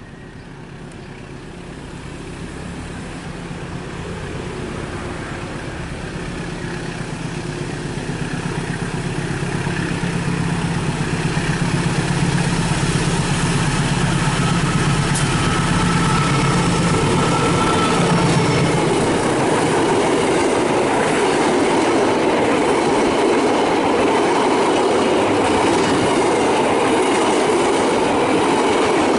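A train approaching and passing at speed: the locomotive's low engine drone grows louder over about twelve seconds, then the wheels and carriages roll past with a steady loud clatter on the rails.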